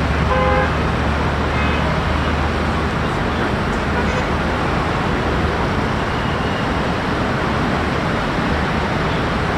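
Boeing 737 MAX 8's CFM LEAP-1B jet engines spooling up for takeoff, a steady loud roar with deep rumble.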